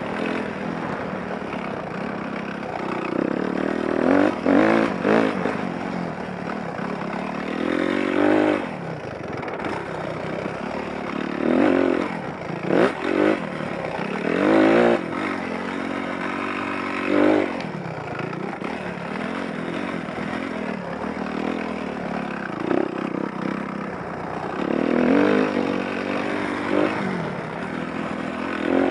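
Dirt bike engine riding a motocross track, revving up hard and dropping off again and again as the rider works the throttle through jumps and corners, with about a dozen loud bursts of revs.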